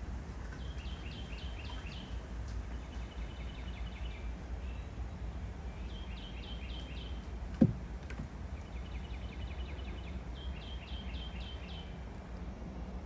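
A songbird singing short phrases of five or six quick repeated notes, again and again, over a steady low background rumble. A single sharp thump about halfway through is the loudest sound.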